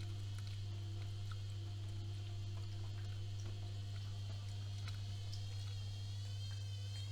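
AEG Öko-Lavamat 76730 washing machine running mid-wash: a steady low hum with a faint high whine, and scattered light clicks. The whine begins to waver near the end.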